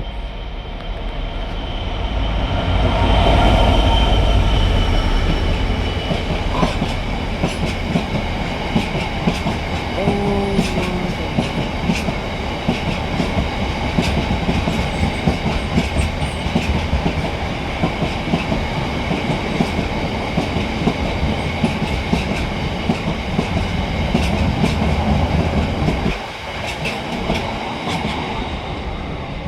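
British Rail Class 66 diesel-electric locomotive passing, its two-stroke V12 engine loudest a few seconds in. Then its train clatters over the rail joints in a long run of regular clicks, which stops suddenly about 26 seconds in.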